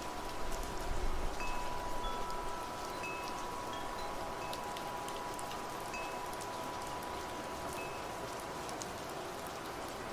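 Wind chimes ringing over steady rain: a long sustained chime tone with several short higher pings, and a low gust of wind in the first couple of seconds.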